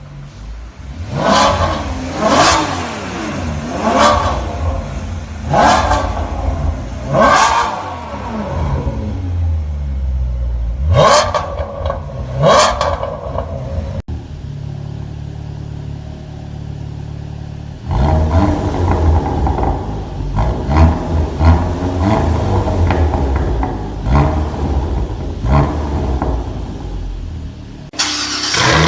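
High-performance car engine revved through its exhaust in a series of about seven quick throttle blips, each rising and falling in pitch. After a cut it runs at a steady low drone, then with uneven, rapid rev surges.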